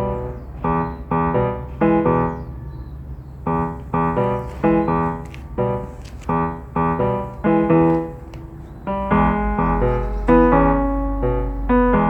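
Background piano music: a gentle run of repeated struck chords at an even pace, over a faint low hum.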